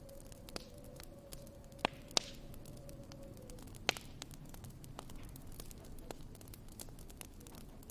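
Wood fire crackling, with scattered sharp pops over a soft steady hiss; the loudest pops come about two seconds in and near four seconds. A faint steady whistle fades out about three and a half seconds in.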